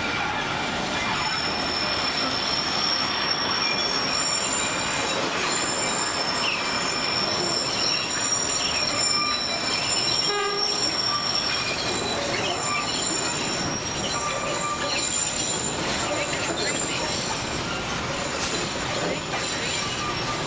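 Narrow-gauge tourist train running along the track, heard from an open car: a continuous rumble and rattle of wheels and carriages. A steady high-pitched wheel squeal sets in about a second in and holds, and there is one brief knock about halfway through.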